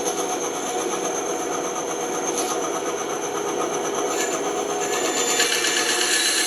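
Band saw running steadily and cutting wood: a constant motor hum under the hiss of the blade, with the hiss growing louder and brighter about five seconds in.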